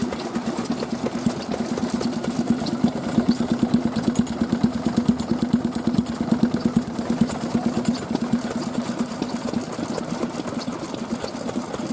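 Vintage stationary engine running with a rapid, even mechanical beat, louder around the middle.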